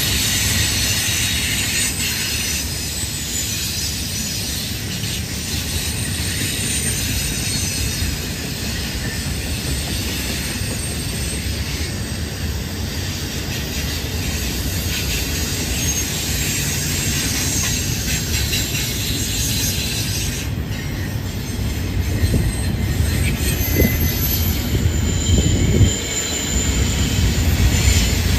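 Double-stack intermodal freight cars rolling past on a curve: a steady rumble of steel wheels on rail, with thin high-pitched wheel squeal coming and going.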